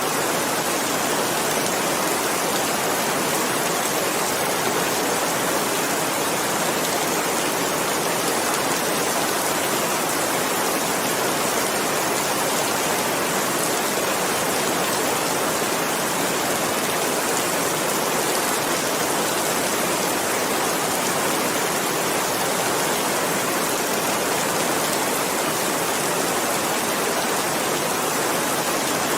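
Steady, even rain: a continuous hiss of falling rain with no distinct drops or changes.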